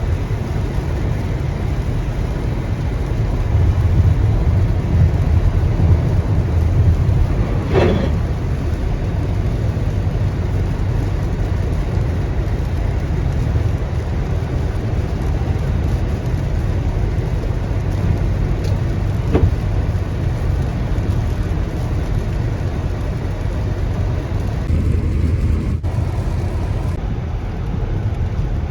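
A car driving in heavy rain: a steady, deep rumble of road and rain noise, with two brief higher sounds, about a third of the way in and again past the middle.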